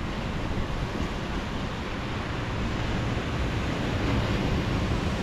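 Ocean surf washing in, with wind rushing over the microphone: a steady noise that slowly grows louder.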